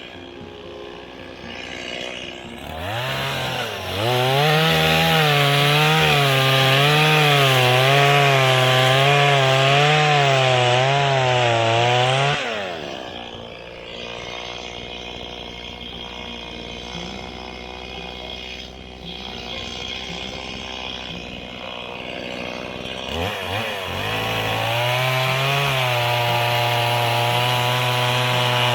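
Small petrol engine revving up about three seconds in and running at high revs with a pitch that wavers up and down, dropping back to a low idle about twelve seconds in, then revving up again and holding steady near the end.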